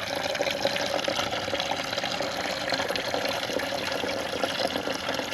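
Water pouring steadily through a camping water filter and filling a container.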